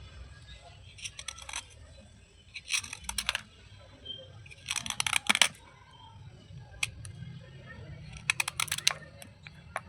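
Crunching of slate pieces, heard as short clusters of crackly clicks about five times, with quiet gaps between them.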